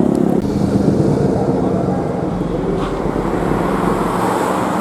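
Vehicle engines running. One engine's steady note drops away about half a second in, leaving a dense mix of engine and traffic noise.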